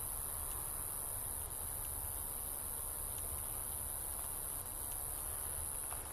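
Steady, high-pitched chorus of night insects, with a low rumble underneath.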